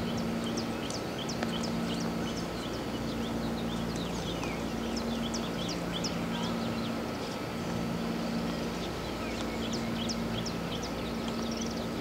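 Small birds chirping: many short, quick downward notes, one after another, over a low hum that comes and goes.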